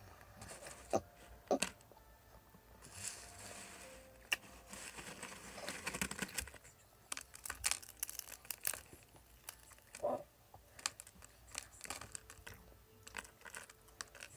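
Crinkling and rustling of a plastic snack packet, with many sharp crackles, as a dry crushed-ramen snack is handled and eaten.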